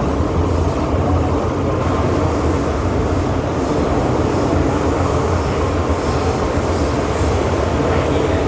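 MTR Island Line M-Train underway: a steady low rumble of wheels and running gear, holding an even speed.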